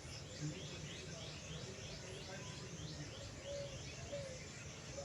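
A bird calling in a quick series of short falling chirps, about three a second, over a low steady background hum.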